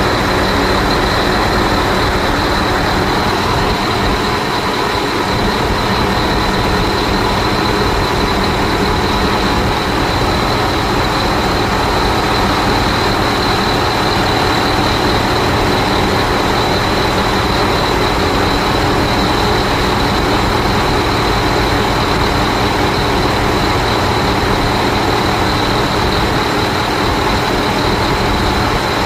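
MTU 16V2000 M91 sixteen-cylinder V diesel engine running at a steady speed, loud and even, with a steady high-pitched whine over the engine note.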